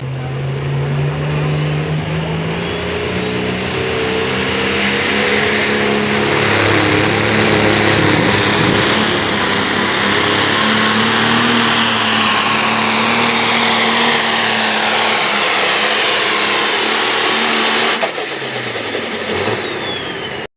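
Turbocharged light pro stock diesel pulling tractor under full load, its engine running hard while the turbo whistle climbs in pitch over the first few seconds. About 18 s in the engine lets off and the turbo whistle winds down.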